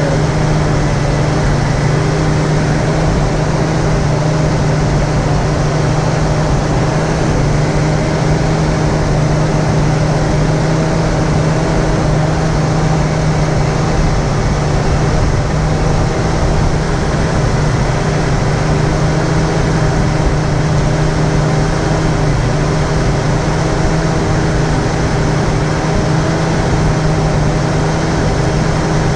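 A 1981 Jeep CJ7's engine idling steadily after its first start of the season. It gives a constant hum with several steady tones above it.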